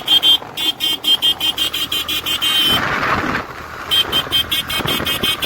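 A high-pitched vehicle horn beeped in rapid short bursts, about four or five a second, in two runs with a pause of about a second between them, over road noise. The sound cuts off suddenly at the end.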